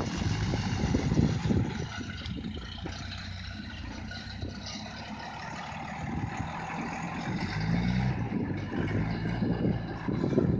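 SEE tractor's diesel engine working under load while digging with the loader. It eases off in the middle, then revs up and grows louder again over the last few seconds.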